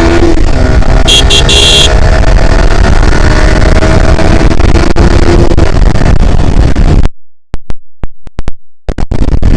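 Kawasaki ZX-10R's stock inline-four engine running under way, its pitch rising slowly as the bike gathers speed, with heavy wind rumble on the microphone. A brief high tone sounds about a second in, and near the end the sound cuts out in repeated gaps with clicks.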